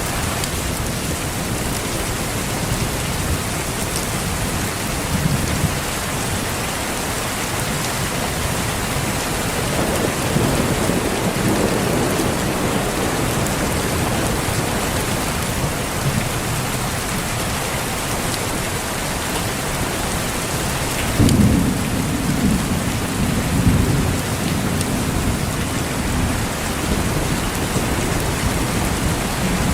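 Steady rain with rolling thunder: a low roll about a third of the way in, and a sharper, louder clap about two thirds through that rumbles on for a few seconds.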